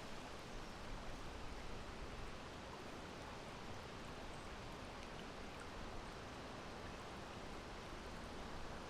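Steady breeze: an even rushing noise that holds level, with no gusts.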